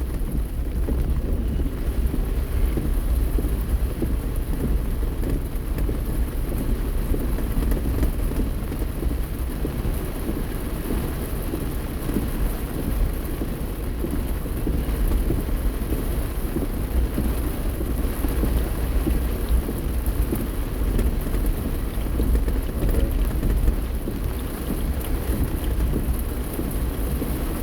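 Steady downpour of rain with a continuous deep rumble underneath.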